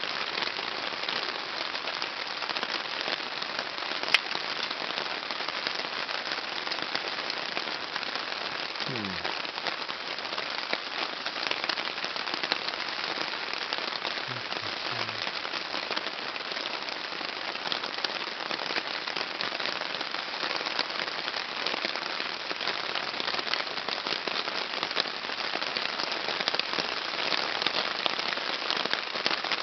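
Heavy rain pattering steadily on a tarp shelter overhead, with one sharp click about four seconds in.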